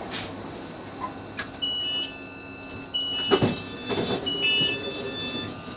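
Electronic door alert on a Class 458 train: three repeated beeps, about one and a half seconds apart, as the doors are released at the station. They sound over the carriage's steady background noise, with a thud about three and a half seconds in.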